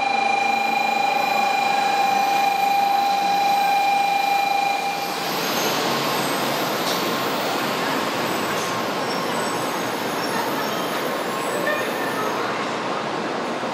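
JR West 700 Series 'Rail Star' Shinkansen train slowing as it pulls in alongside the platform: a steady noise of wheels on rail and rushing air. A steady high tone sounds at the same time and stops abruptly about five seconds in.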